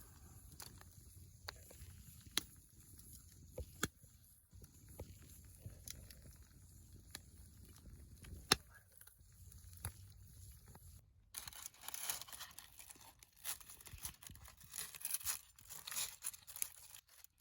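A wood fire crackling, with scattered sharp pops over a low rumble. After a cut about 11 seconds in comes denser, crisp crunching and crackling.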